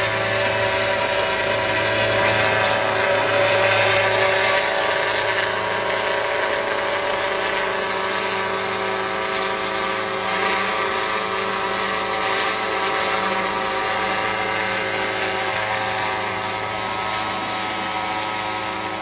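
Helicopter's engine and rotor running steadily, a continuous whine and drone that grows a little louder a few seconds in and then slowly fades.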